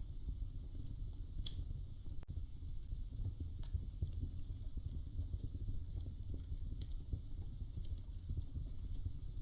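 Wood fire crackling in a fireplace: a steady low rumble of burning with a handful of sharp pops and snaps scattered through it.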